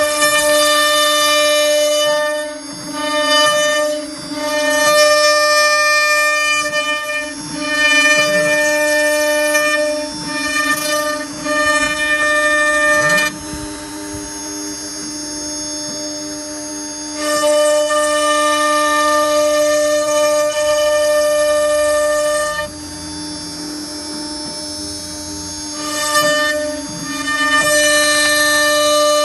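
CNC router spindle whining at a steady pitch while its bit mills a pocket in wood, the cutting noise rising to a louder, many-toned whine in stretches of a few seconds and dropping back between passes.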